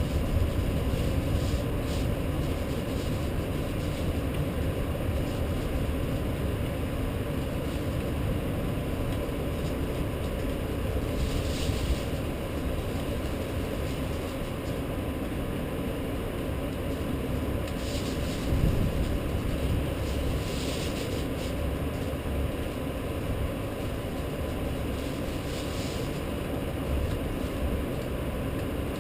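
Steady rain-storm ambience: a constant low rumble with a hiss over it, and a few brief swishes every several seconds.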